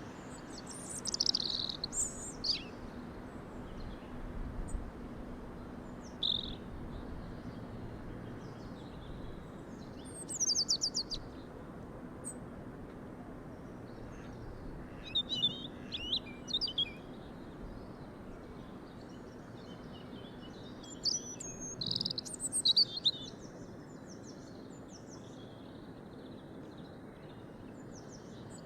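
Small birds chirping and singing in short, high phrases that come in clusters every few seconds, over a faint steady background hiss.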